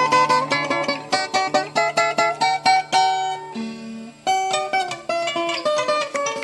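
Background music: an acoustic guitar plucked in a quick run of single notes.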